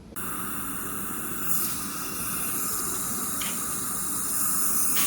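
Steady hiss of running or spraying water, with a faint steady whine that breaks off briefly twice.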